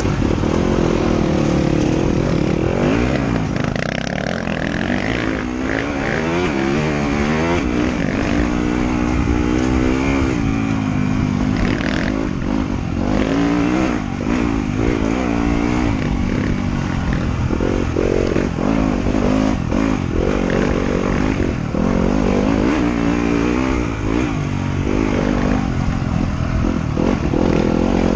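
Off-road motorcycle engine on a trail ride, its pitch repeatedly rising and falling as the rider works the throttle and shifts gears.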